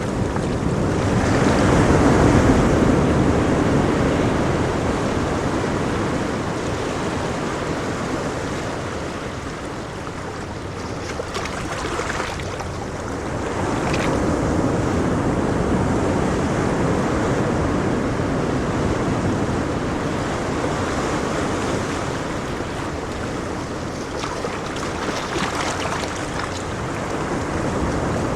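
Ocean waves breaking and washing on a shore, a continuous rushing surf that swells and eases slowly over several seconds, loudest about two seconds in and again around the middle.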